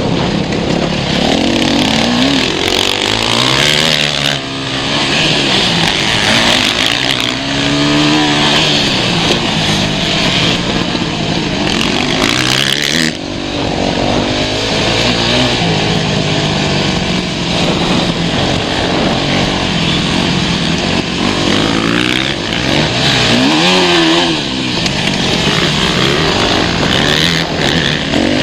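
Motocross motorcycle engines running on a track, revving up and down over and over, with several engines overlapping at different pitches.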